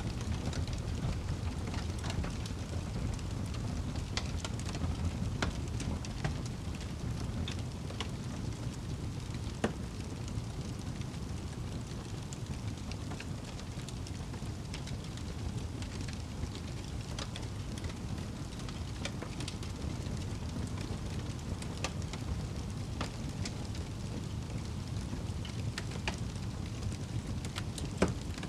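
Wood fire burning in a fireplace: a steady low rumble of flame with scattered crackles and pops, two of them louder, about ten seconds in and near the end.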